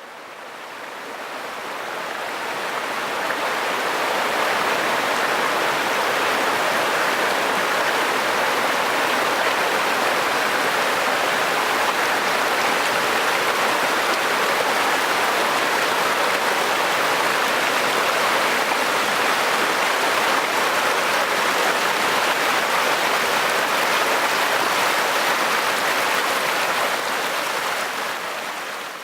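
River water flowing and rushing steadily, fading in over the first few seconds and fading out near the end.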